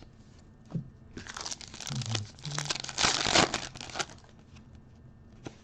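Plastic wrapper of a trading card pack crinkling as it is torn open and handled, loudest about three seconds in.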